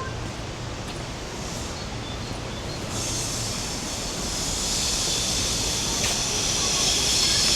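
Rushing water of the Rhine Falls, a steady noisy roar that grows louder about three seconds in, with a high hiss of spray joining it.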